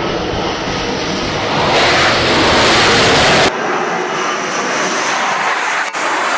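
Aircraft engine noise on a carrier flight deck: a loud, steady rushing sound that changes abruptly in level and tone about two seconds in, again about three and a half seconds in, and once more near the end, as between separate shots.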